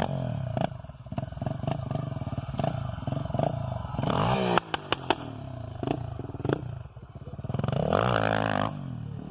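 Honda XR 250 Tornado single-cylinder four-stroke engine running and being revved, with a rising rev about four seconds in and another about eight seconds in. A few sharp clicks follow just after the first rev.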